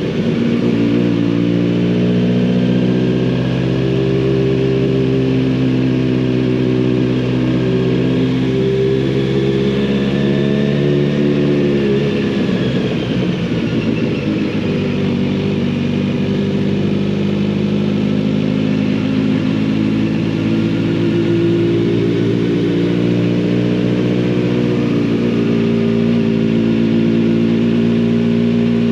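Kawasaki Z900RS inline-four engine and exhaust running under way, a steady drone. About ten seconds in the note wavers and shifts with a change of throttle, then settles into a steady note again.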